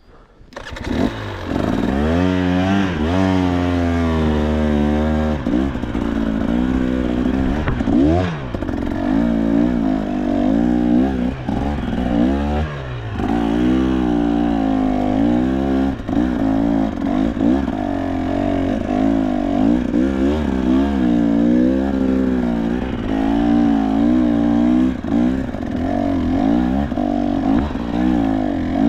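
KTM two-stroke dirt bike engine starting up about a second in, then revving up and down repeatedly as the bike is ridden.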